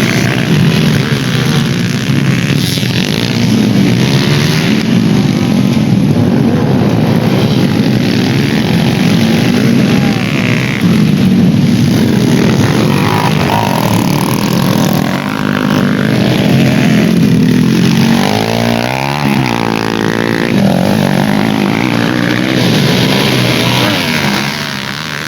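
Dirt-bike engines running at racing revs, with one engine's pitch sweeping steeply up and down about three-quarters of the way through.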